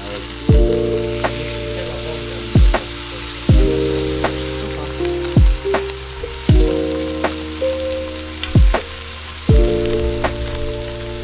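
Food sizzling as it fries or grills, with a steady hiss under background music. The music has soft beats roughly once a second, the loudest sounds, and sustained chords that change every second or two.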